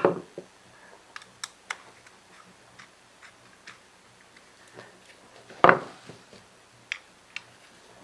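Small carburetor parts and tools being handled on a workbench: a sharp knock at the start and another about six seconds in, with scattered light clicks between.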